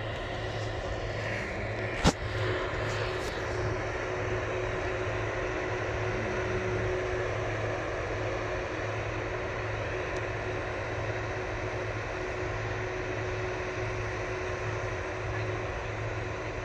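Jet engines of a Boeing 747-400 running steadily at low power, a constant rumble with a steady whine. A single sharp click comes about two seconds in.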